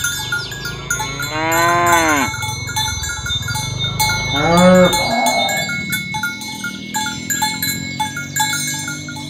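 Cattle mooing: two calls that rise and fall in pitch, about one second and four seconds in, over repeated bell-like chiming.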